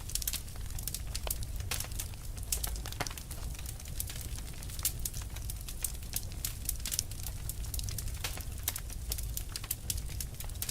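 Burning fire crackling: many sharp, irregular pops and snaps over a steady low rumble of the flames.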